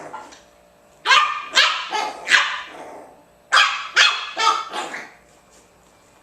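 A dog barking in play: one short bark at the start, then two quick runs of about four barks each, a second and a half apart.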